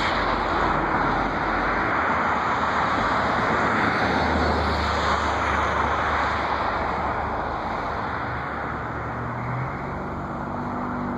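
Steady rushing vehicle noise that eases slightly toward the end, with a low engine hum coming in during the second half.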